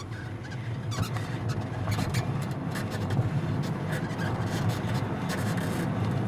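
Road rumble inside a Tesla Model 3's cabin on a rough road, with repeated short creaks and squeaks from the front suspension starting about a second in. The squeaking comes from worn front control arms, which the mechanics place on the right side.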